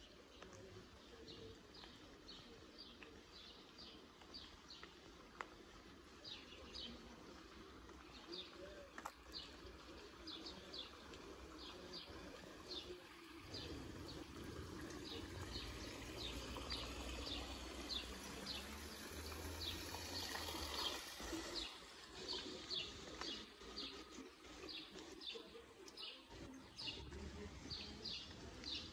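Small birds chirping over and over, a few short chirps a second, over faint street quiet. A low rumble swells through the middle and fades again.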